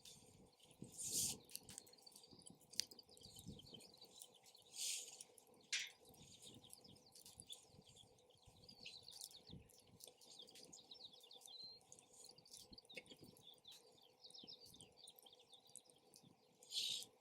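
Wood campfire crackling softly with many small ticks and a few brief louder hisses, over a low rumble of wind.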